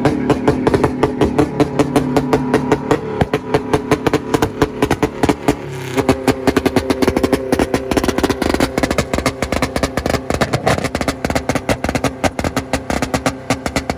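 Car engine held on a two-step launch limiter: a steady held rev broken by rapid sharp exhaust pops, several a second. The note shifts and grows louder about six seconds in.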